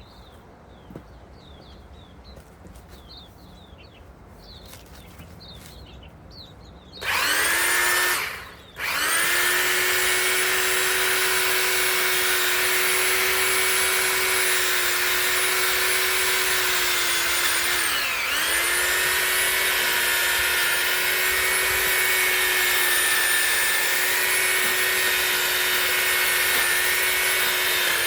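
Electric chainsaw-type pole saw motor starting about seven seconds in, stopping for a moment, then running steadily with a constant high whine to the end, its pitch dipping briefly once around two-thirds of the way through. Faint bird chirps before it starts.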